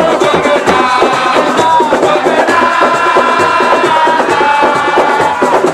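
Loud live percussion music: dense, rapid drumming with voices singing held lines over it.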